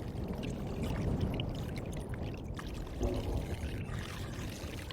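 Floodwater flowing, a steady watery rush.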